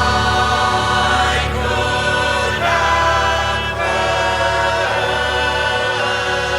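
Instrumental ensemble singing together as a chorus in sustained close harmony, in a style reminiscent of Bulgarian folk singing. The harmonies shift strangely between keys, with augmented chords. The chords change every second or so over a steady low drone.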